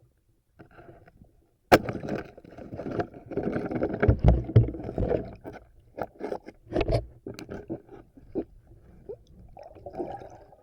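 Water sloshing and splashing in a river, with irregular knocks and scrapes, and one sharp click about two seconds in.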